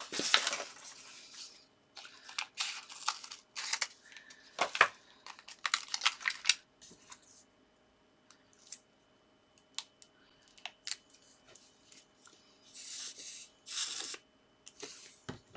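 Paper and card being handled for layered star decoupage: short bursts of rustling and scraping with small sharp clicks and taps in between, stopping and starting.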